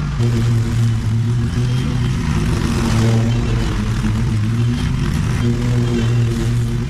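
Small engine running steadily at a constant speed, with a low, even hum.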